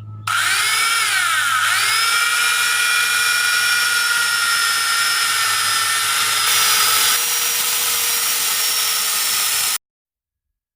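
Electric angle grinder fitted with a chainsaw adaptor, running at high speed with a loud whine. Its pitch dips briefly twice in the first two seconds, then holds steady, and the sound cuts off abruptly near the end.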